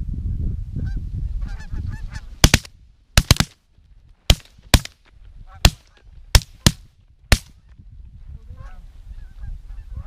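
Canada geese honking as a flock works over the decoys, and a volley of about ten shotgun blasts from several hunters over about five seconds, starting a couple of seconds in. Low wind rumble on the microphone in the first two seconds.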